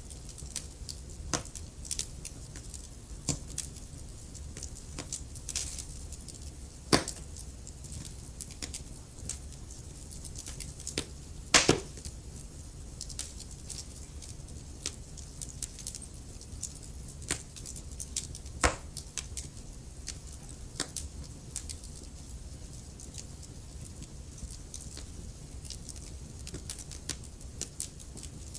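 Wood logs burning in a fireplace, crackling with many small irregular pops over a low steady rumble of the flames. A few louder snaps stand out, the loudest a little before midway.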